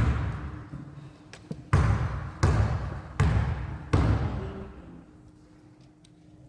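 A basketball bouncing on a hardwood gym floor, five thuds with the last four coming evenly about three-quarters of a second apart. Each bounce echoes in the large hall, then the sound fades away.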